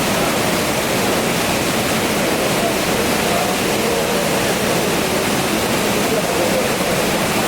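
Steady rush of a mountain waterfall: loud, even roaring water noise with no breaks.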